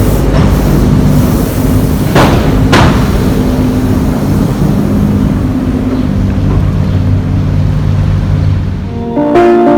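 Tobu Railway electric train crossing the steel railway bridge over the Sumida River: a loud, steady rumble, with two sharp wheel clacks over a rail joint about two seconds in. The rumble dies away near the end as music comes in.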